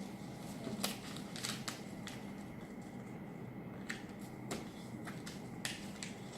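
Paper being folded and creased by hand: a series of crisp crackles and rustles as the folds are pressed flat, over a low steady hum.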